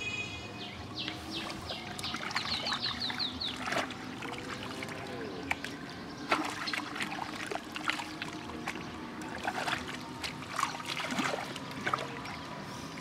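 Water splashing and sloshing, with many short sharp splashes and knocks. About a second in there is a quick run of high rising chirps.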